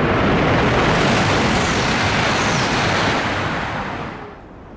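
Series E5 Shinkansen passing through a station at high speed: a loud, steady rush of air and wheels that fades and then cuts off suddenly a little past four seconds in.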